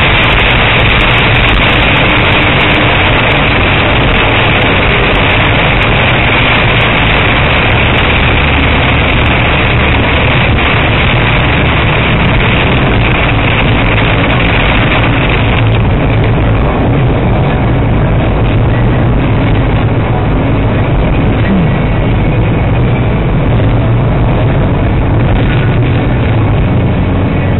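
Torrential rain and road spray on a car at motorway speed, heard from inside the cabin: a loud, steady hiss over the low rumble of the engine and tyres. The hiss eases a little just over halfway through.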